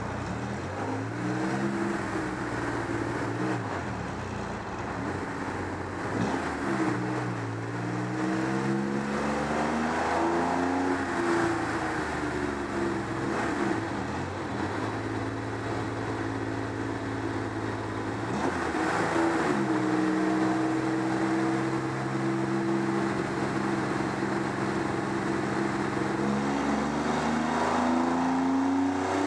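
Porsche 914/6's air-cooled flat-six engine running the car on a chassis dynamometer, its revs rising and falling several times, holding steady for long stretches, and climbing again near the end.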